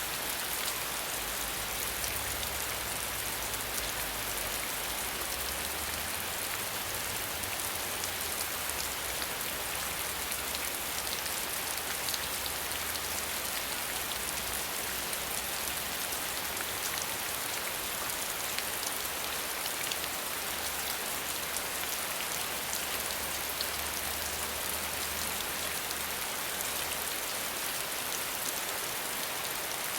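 Steady rain falling, with no thunder, a dense patter of drops holding an even level.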